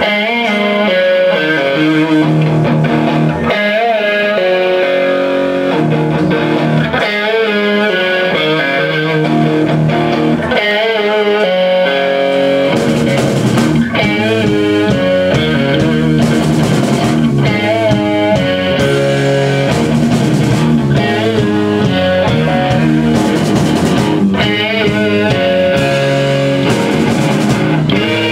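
Electric guitar playing a bluesy rock instrumental with bent, wavering notes. About twelve seconds in, the accompaniment grows fuller and heavier.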